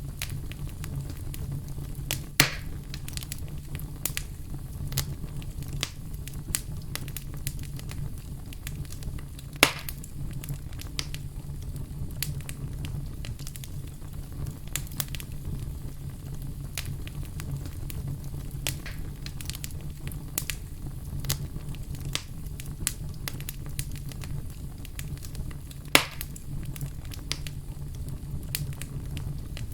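Wood fire in a fireplace crackling: a steady low rumble of flames under frequent sharp snaps, with three louder pops about two seconds in, near ten seconds and near twenty-six seconds.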